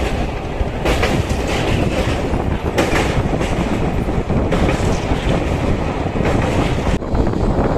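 Express train running at speed: wheels rumbling and clacking over the rail joints, with irregular sharp knocks, heard from aboard the coach.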